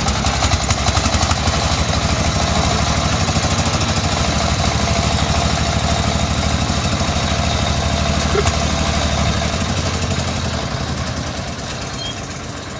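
A heavy vehicle's diesel engine running steadily and loudly with a fast, even pulse, growing quieter in the last couple of seconds.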